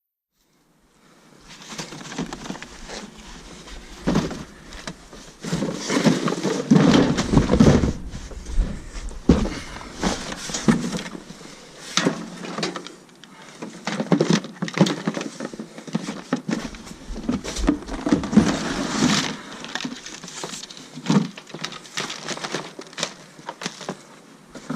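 Rummaging through discarded boxes and electronic gear: cardboard and plastic rustling and scraping, with irregular knocks and a few heavier thumps as items are shifted.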